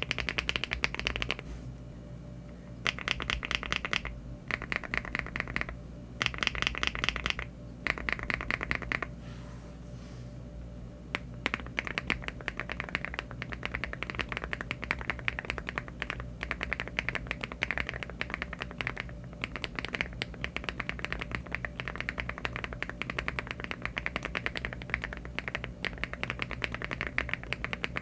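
Typing on a LEOBOG Hi75 aluminium mechanical keyboard fitted with HMX switches and Cherry-profile keycaps: rapid keystroke clatter. It comes in short bursts with brief pauses for about the first nine seconds, goes softer for a moment, then runs on as steady continuous typing.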